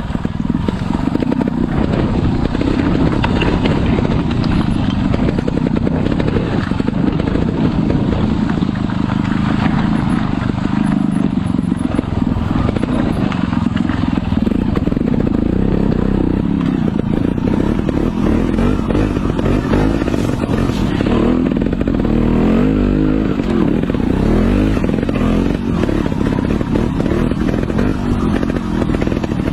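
Off-road motorbike engine running steadily under way.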